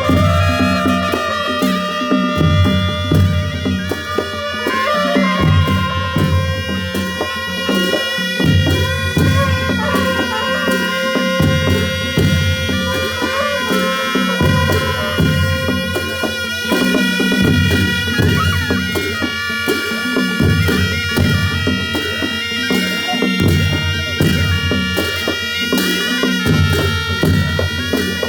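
Nepali panche baja ensemble playing: reedy shehnai-type wind instruments holding long notes over a repeating drum pattern, with crashing cymbals.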